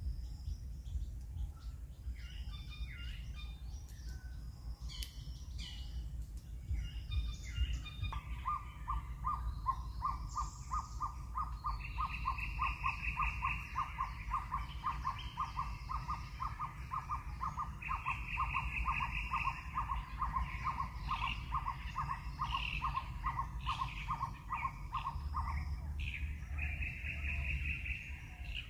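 Background bird calls: a long series of short, evenly repeated notes, about three a second, starts about a third of the way in and stops a few seconds before the end, with bursts of a higher, faster trill over it. A steady low rumble lies underneath.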